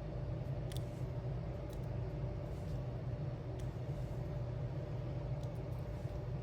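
A few faint, sharp clicks, irregularly spaced, of diamond-painting gems being picked up and set onto a sticker with a drill pen, over a steady low hum of room noise.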